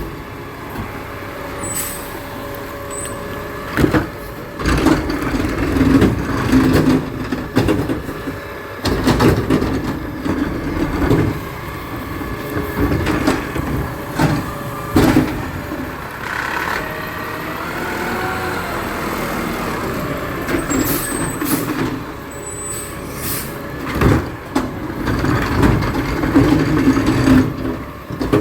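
Garbage truck working, its diesel engine running throughout with several loud clanks and bangs, a few short hisses of air, and a wavering whine a little past the middle.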